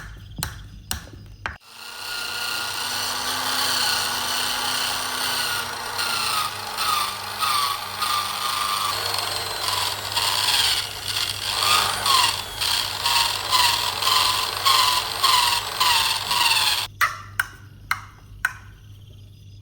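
A power tool running, with its pitch dipping and recovering in repeated strokes about once or twice a second as the work is pressed against it. It starts about a second and a half in and stops near the end, with a few sharp knocks before and after.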